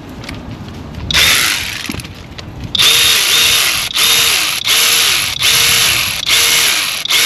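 Cordless electric ratchet running new spark plugs down into a Chrysler 3.6 L V6 cylinder head until they seat. It runs in one burst about a second in, then in a regular series of short trigger pulls, a little over one a second, each with a motor whine that rises and falls.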